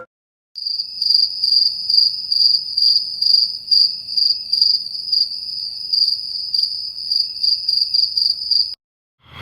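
Crickets chirping: a steady high trill that pulses about two to three times a second, then cuts off suddenly near the end.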